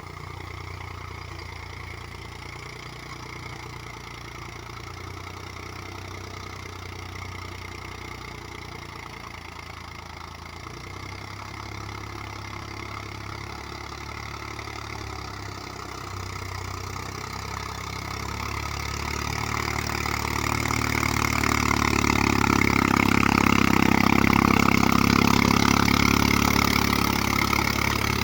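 The 35 HP diesel engine of a Mahindra Yuvo 275 DI tractor runs steadily while pulling a rotavator, and grows markedly louder over the last third before easing slightly near the end.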